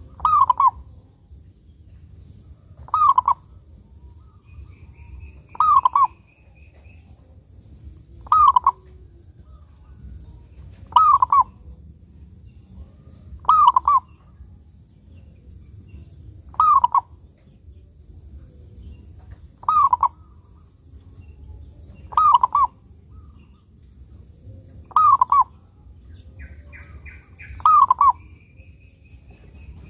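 Zebra dove (Indonesian local perkutut) repeating its cooing song, one short phrase roughly every two and a half to three seconds, about eleven times.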